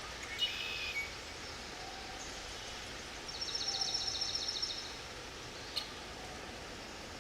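Forest ambience: small birds calling over a steady rushing background noise. A short high call comes about half a second in, and a rapid trill of repeated high notes lasts about a second and a half in the middle. A single sharp click comes near the end.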